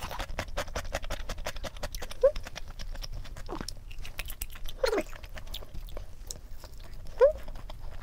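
Close-up crunching and chewing of crispy fried chicken, with quick crackling bites. A few short squeaky sounds rise and fall in pitch over the crunching.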